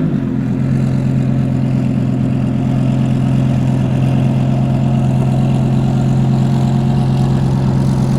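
Car engine idling with a steady, low, even note.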